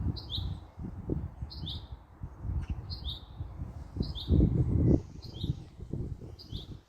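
A bird repeating a short, high chirp about once a second, over a low, uneven rumble that swells about four seconds in.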